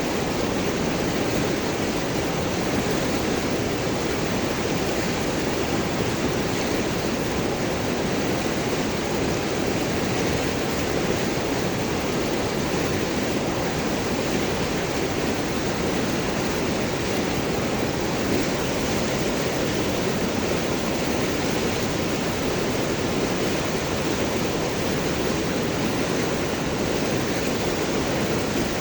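River water flowing and gurgling over and around large rocks: a steady, even rush with no breaks.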